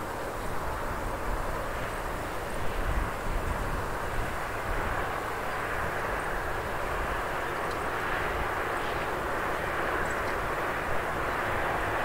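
Train passing in the distance: a steady rumble that slowly grows louder, with wind buffeting the microphone.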